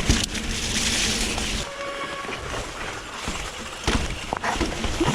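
Electric mountain bike ridden over a wet, rocky trail: a rush of tyre and wind noise, loudest in the first second and a half, then several sharp knocks and rattles as the bike hits roots and rocks, with a brief faint squeal in between.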